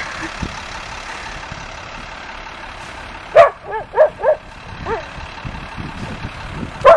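A dog barking: a quick run of about five short barks in the middle, and one more at the end, over a steady rushing background noise.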